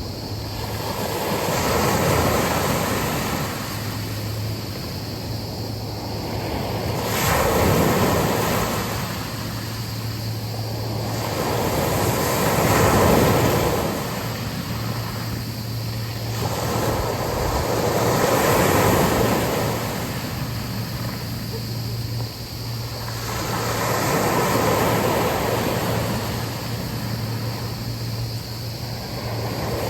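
Sea waves breaking and washing up the shore, the surf swelling and fading about every five to six seconds, with a steady low hum underneath.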